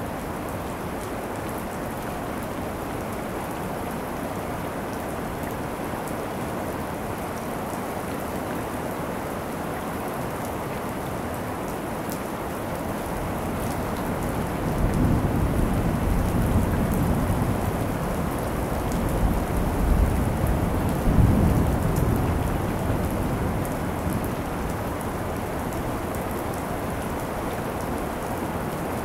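Steady rain falling during a thunderstorm. About halfway through, a low thunder rumble rolls in, swells twice to its loudest about two-thirds of the way through, then fades back under the rain.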